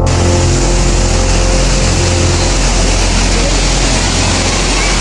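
A steady, loud rushing noise with a low rumble cuts in abruptly at the start. Faint held music tones die away over the first two seconds or so.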